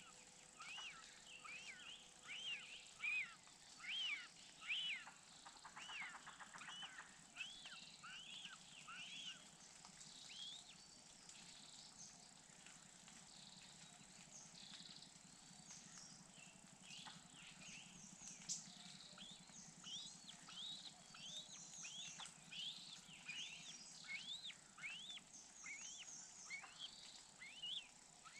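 Bird calls: a long series of short, high, arching chirps, about two a second, loudest in the first few seconds, with a brief fast buzzy trill about six seconds in.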